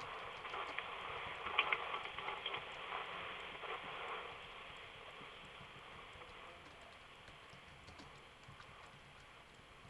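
Faint, irregular light clicks over a soft scratching hiss, busiest in the first four seconds and then fading away.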